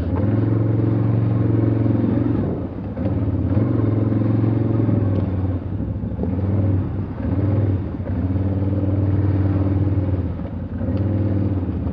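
Motor vehicle engine running under load over rough ground, its revs swelling and easing off roughly every two seconds, with a few light knocks.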